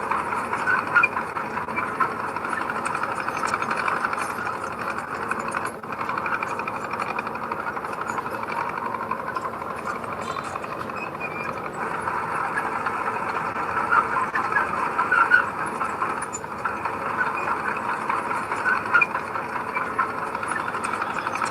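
Heavy earthmoving machinery running steadily, with small clicks and knocks scattered through it.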